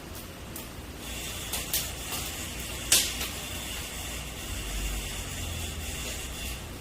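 Wood fire crackling and hissing, with a steady hiss from about a second in and several sharp pops, the loudest about three seconds in.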